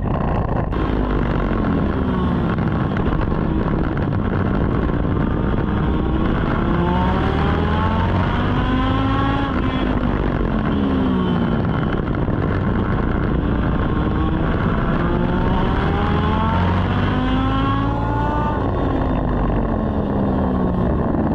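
Legend race car's Yamaha 1250 cc four-cylinder motorcycle engine running hard on a racetrack, with a steady loud drone throughout. Twice the engine pitch climbs over a few seconds as the car accelerates, then drops quickly when it lifts.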